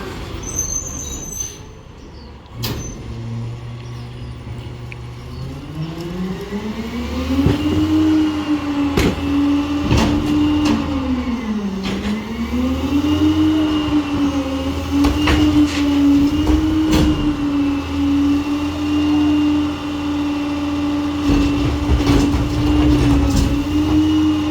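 Garbage truck's diesel engine speeding up about five seconds in and holding at high revs, dipping once briefly, as it drives the truck's hydraulics, with scattered clanks and knocks throughout.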